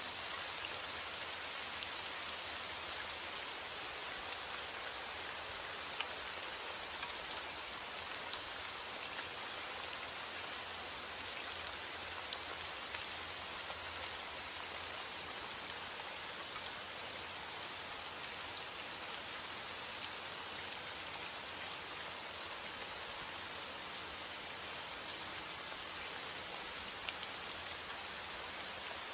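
Steady heavy rain falling, a dense even hiss with many individual drops pattering and ticking on a surface.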